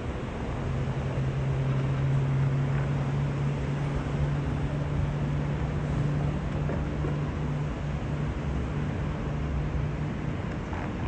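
Steady low rumble with a low engine-like hum that sets in about a second in and weakens after about eight seconds.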